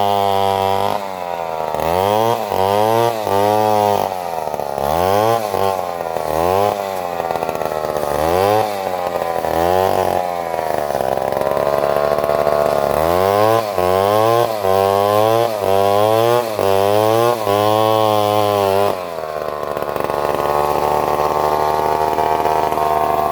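Stihl two-stroke chainsaw cutting into a coconut palm, its engine revved up and dropped back over and over, about once a second in places, with longer stretches held at high revs.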